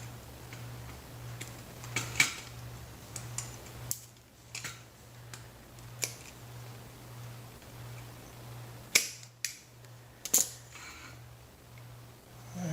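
Wire cutters snipping through the lead wires of an old ceiling fan capacitor: a series of sharp snips and clicks, the loudest about nine and ten seconds in, over a steady low hum.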